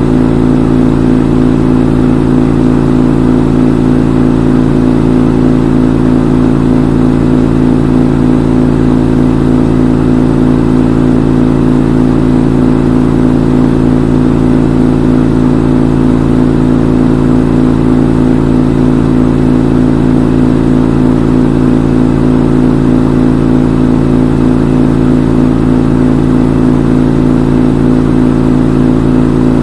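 Front-load washing machine on its spin cycle: a loud, steady hum from the drum turning at full speed, unchanging throughout.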